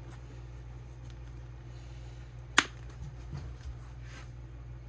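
A Craftmates Lockables plastic storage case being closed, with a single sharp click as it snaps shut about two and a half seconds in, followed by a few faint handling taps. A steady low hum runs underneath.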